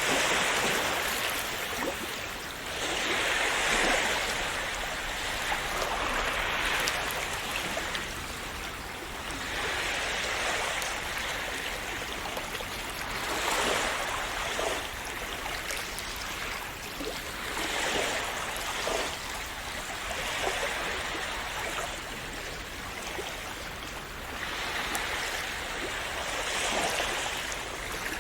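Sea waves breaking and washing on a shore, a steady rush of water that swells every three to four seconds.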